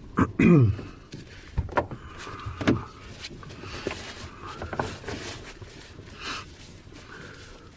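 Knocks and clicks in a glider's cockpit, with a short falling tone just at the start and two sharp knocks in the first three seconds.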